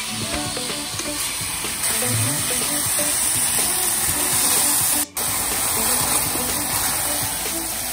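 Diced onions and garlic sizzling in a stainless steel sauté pan as they are stirred with a wooden spoon: a steady frying hiss that drops out for an instant about five seconds in.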